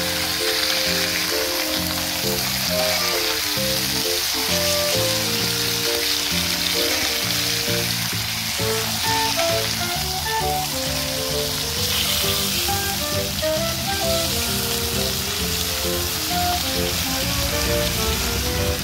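Pork belly slices frying on a seasoned cast-iron cauldron lid, with a steady sizzling hiss. Background music with a simple stepping melody plays over it.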